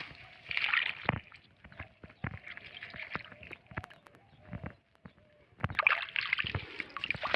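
Rustling and crinkling of old plastic being handled and pulled out, in two spells, one about half a second in and a longer one near the end, with scattered knocks and thuds in between.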